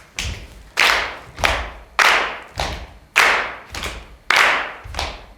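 A group of people beating out a steady body-percussion rhythm, hands and feet on chairs and the floor, about two beats a second. Each beat is a clap-like smack with a thud under it.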